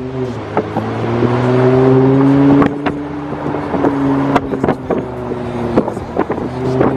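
Car engine pulling away: its pitch and loudness climb over the first two and a half seconds, then it drops back to a steady run. Many sharp clicks sound through it.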